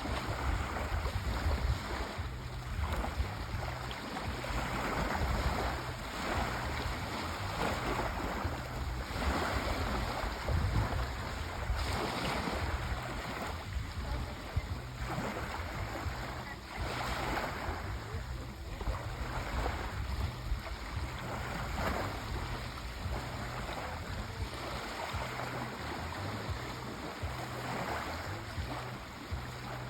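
Sea waves washing in and out, a steady hiss of surf that swells and falls back every second or two over a low rumble.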